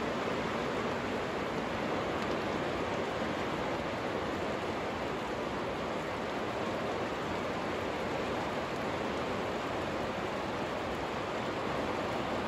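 Steady rain pouring down: an even, unbroken hiss that holds at the same level throughout.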